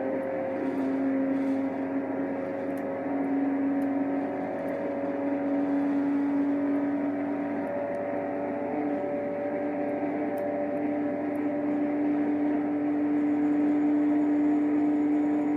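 BMW 1 Series M Coupé's twin-turbo straight-six pulling hard in a high gear, a steady drone whose pitch climbs slowly as speed builds toward the top of the run.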